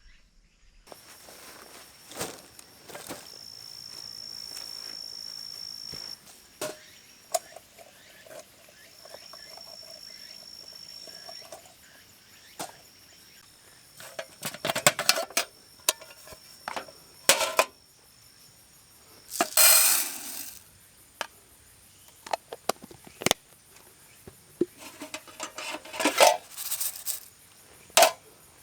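Knocks, clatters and rustling of camp gear being handled, in short bouts with several louder scrapes, over the steady high-pitched singing of insects.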